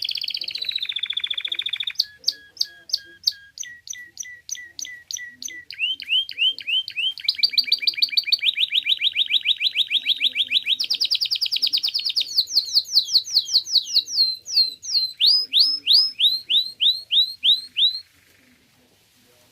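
Canary singing a long song of fast repeated-note phrases that switch every couple of seconds, from low rattling rolls to high sweeping whistles. It stops shortly before the end.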